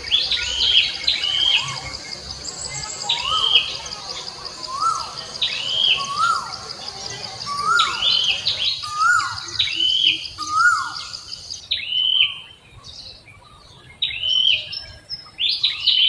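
Birds calling, with short arching chirps repeated about once every second and a half. A steady high buzzing trill runs beneath them and cuts off suddenly about three quarters of the way through.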